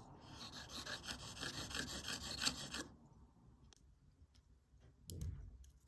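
Metal watch case being rubbed back and forth by hand on an abrasive to flatten and refinish its sides, in quick, even strokes that stop about three seconds in; a few faint clicks follow.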